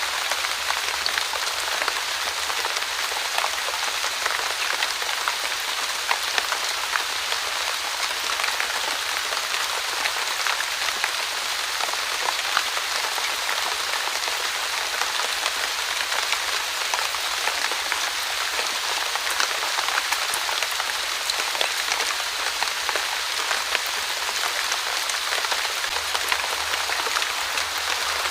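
Steady light rain: a soft even hiss with many small scattered drop ticks.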